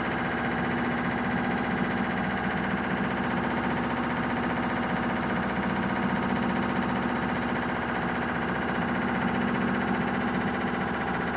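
Primus 12 kg commercial washing machine in its high-speed final spin with an unbalanced load: a steady drum hum with a fast, continuous hammering rattle from the machine shaking.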